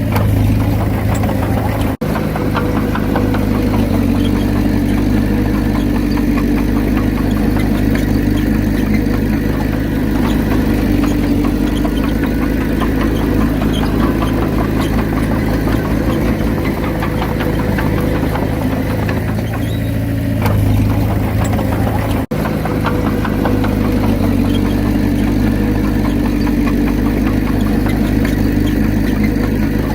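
Komatsu D31P bulldozer's diesel engine running steadily with a dense clattering texture, briefly cut off twice.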